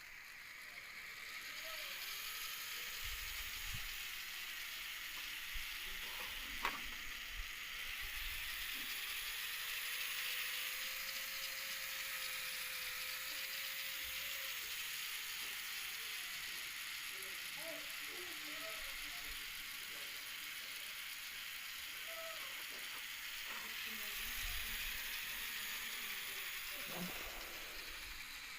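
Small DC gear motors of a solar-powered model car running, a steady whirring hiss with a faint whine that drifts slowly up and down in pitch and a few light clicks.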